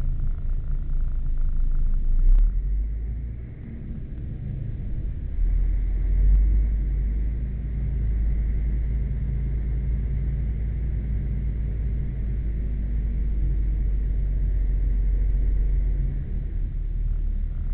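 Car engine running with a steady low rumble, heard from inside the cabin as the car moves slowly. It eases off briefly a few seconds in and then holds steady.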